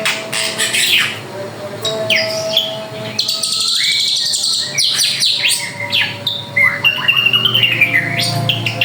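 A drongo singing a fast, varied song of clear whistles, chirps, sweeping notes and short sharp calls, one phrase following another without pause.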